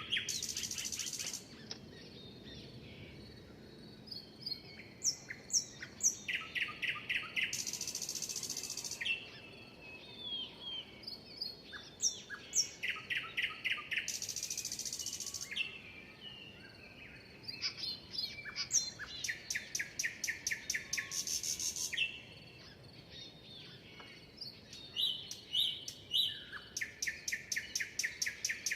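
Songbirds singing: one bird repeats a phrase of a fast, even trill running into a high buzz, about every six seconds, with short chirps from other birds between.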